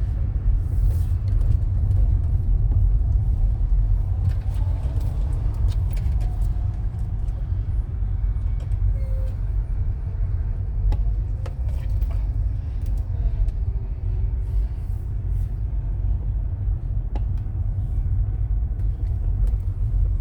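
Steady low rumble like a motor vehicle's engine and road noise, with a few faint ticks and brief faint tones above it.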